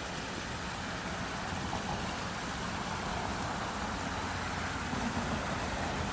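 Steady rushing of water flowing over a waterfall's rocks, an even noise with a low rumble underneath.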